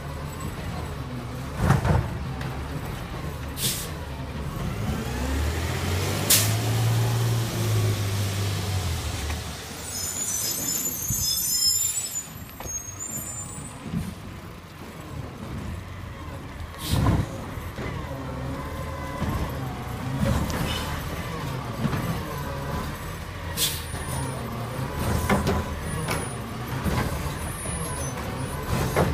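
Garbage truck's diesel engine running, speeding up for about four seconds from around five seconds in, with sharp air-brake hisses and knocks several times and a brief high squeal around ten seconds in.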